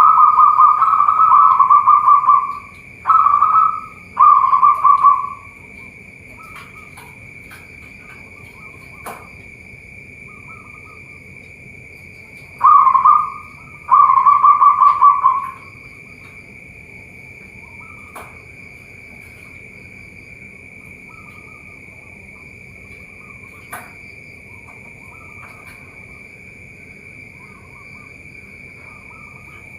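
Zebra dove (perkutut) cooing in rolling, trilled phrases: a long phrase at the start, two short ones soon after, then another short and a longer phrase about halfway, with quiet between.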